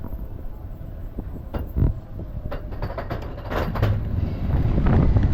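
Expedition Everest roller coaster train clattering along its track. A rumble and wind noise on the microphone grow louder from about four seconds in.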